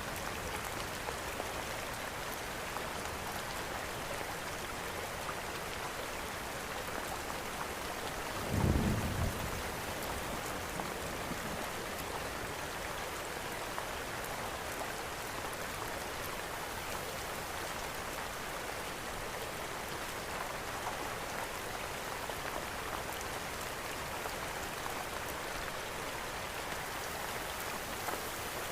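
Steady rain falling, mixed with the faint crackle of a wood fire in a fireplace. About nine seconds in comes a brief low rumble, the loudest moment.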